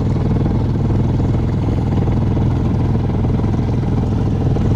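Boat engine running steadily at low revs, a constant low drone.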